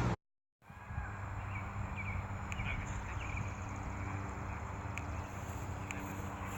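Outdoor ambience: a steady low hum with faint short chirps and a few sharp clicks.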